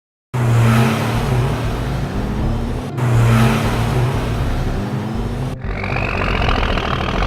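Vehicle engine sound effect: a loud, noisy engine rumble that restarts as a loop about three seconds in, then a rising whine near the end.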